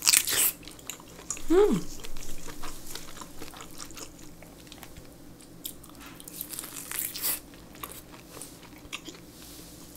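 A close-miked bite into tender boiled pork belly (suyuk), followed by wet chewing with many small mouth clicks and smacks. A brief falling hum of the voice comes about one and a half seconds in.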